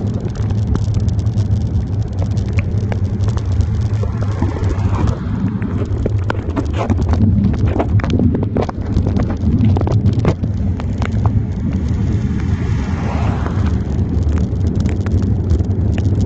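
Wind rumbling over a handlebar-mounted phone's microphone on a moving bicycle in the rain, with scattered clicks and knocks.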